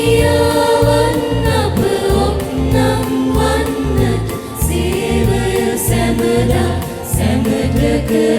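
Choir singing a hymn over a band accompaniment with a steady bass beat.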